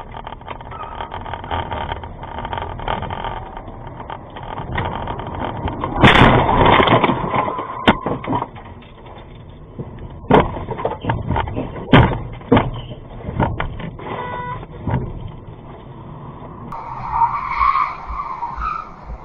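Dashcam recording of a car in traffic, with steady road and engine noise. About six seconds in, a sudden loud crash with a couple of seconds of crunching and scraping, followed by several sharp knocks and bangs.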